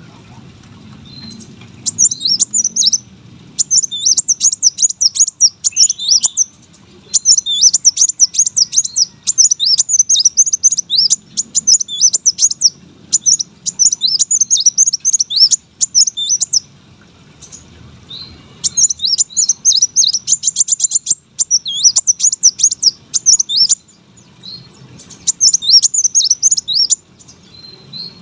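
Kolibri wulung (Van Hasselt's sunbird) singing in long bursts of rapid, very high twittering phrases with short pauses between them. This is a bird in full, persistent song, the kind recorded to train other songbirds.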